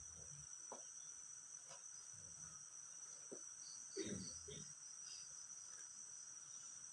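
Steady high-pitched chirring of insects, with a few faint low thuds, the loudest about four seconds in.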